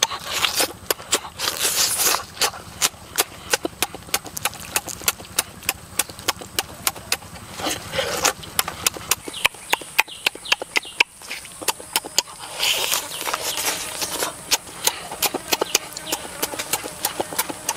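Close-up chewing and lip-smacking of roasted chicken: wet mouth clicks several times a second, with a few short sucking noises.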